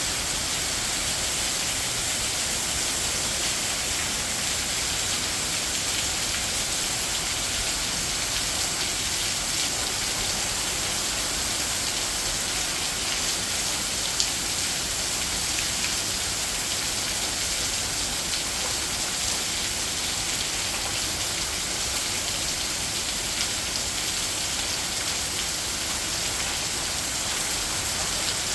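Heavy rain falling steadily, a constant hiss with scattered ticks of drops, and one slightly louder tick about halfway through.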